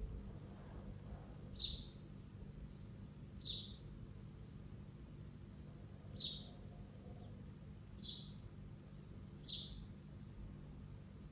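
A bird repeating a short, high chirp that slides downward in pitch, five times at intervals of about two seconds, over a faint steady low hum.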